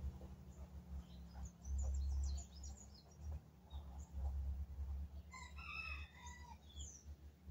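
A bird calls once, about five seconds in, a pitched call lasting about a second. Short high chirps of small birds come before and after it, over a steady low rumble.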